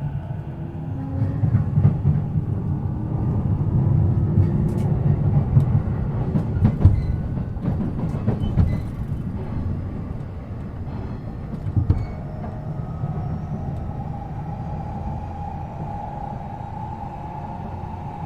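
E233-7000 series electric train running, heard from on board: a heavy rumble of wheels on rail with scattered clicks. The traction motor whine shifts in pitch and rises gently in the second half.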